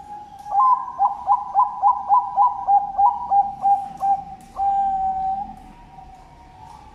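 Zebra dove (Bangkok perkutut) cooing: a quick run of about a dozen short notes, roughly three to four a second, each dropping in pitch, ending in one longer held coo.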